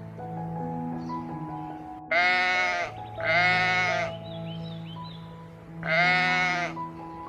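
Three loud bleats from a farm animal, each just under a second long, the first two close together and the third a couple of seconds later, over soft background music.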